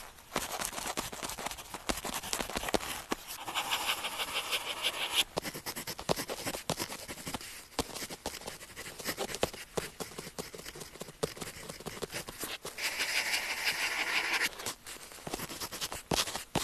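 Pen tip scratching across paper in many short writing strokes, with two longer spells of fast continuous scribbling, about three seconds in and again about thirteen seconds in.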